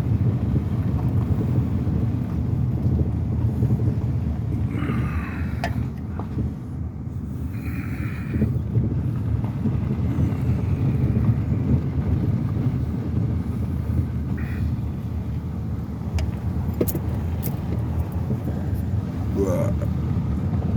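Pickup truck driving slowly on a dirt forest road, heard from inside the cab as a steady low engine and tyre noise, with a couple of brief squeaks and a few clicks.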